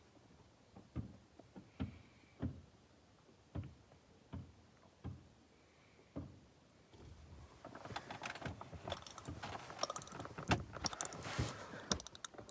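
Soft, irregular knocks and taps, then from about seven seconds in a busy run of rustling, clicking and clattering as things are handled.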